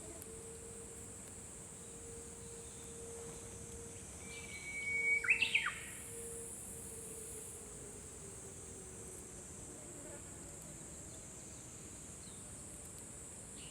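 Japanese bush warbler (uguisu) singing one song about halfway through: a held whistle followed by a quick flourish of sweeping notes. A steady high hiss runs underneath.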